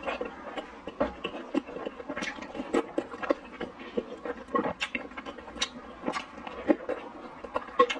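Close-up eating sounds of a person chewing boiled dumplings in sour chili soup: a steady run of wet mouth smacks and clicks.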